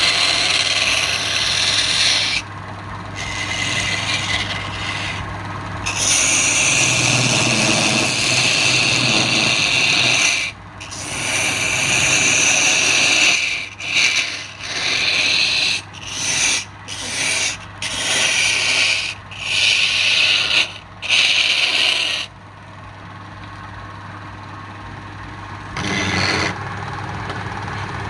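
Wood lathe running with a steady hum while a turning tool or sandpaper is held against the spinning wood, a hissing scrape that stops and starts in repeated passes, shorter and quicker in the middle. Near the end only the lathe's hum remains for a few seconds.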